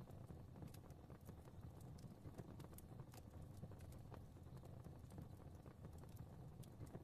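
Fireplace fire crackling softly: scattered, irregular small pops and snaps over a low, steady rumble of flame.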